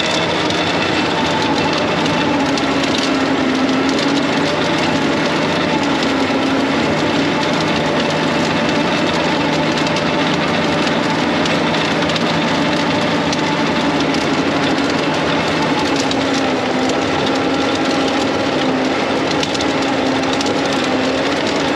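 Tractor engine running steadily under load as it pulls a cultivator bed-former, with its pitch shifting slightly now and then over a broad rattle and rumble.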